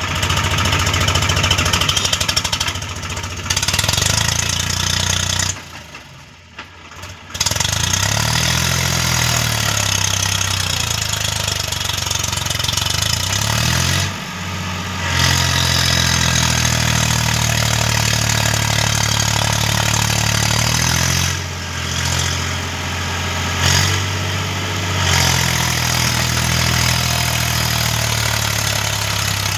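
Swaraj tractor's diesel engine working hard, its pitch rising and falling as the throttle is opened and eased while the tractor is stuck and straining to pull free. The sound drops away briefly about six seconds in.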